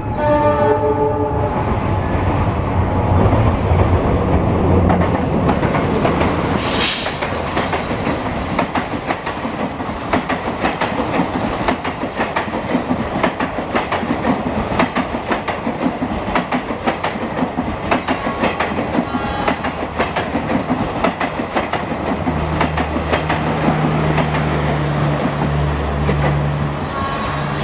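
Argo Anggrek express passenger train passing at speed. The diesel locomotive's horn ends about a second in and its engine goes by loudly. After a brief loud burst, the coaches' wheels clatter steadily over the rail joints, and a steady low hum comes in near the end.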